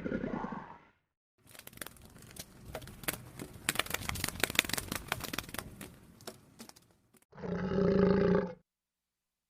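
Irregular crackling and clicking for several seconds, then a short, loud call from an animal near the end.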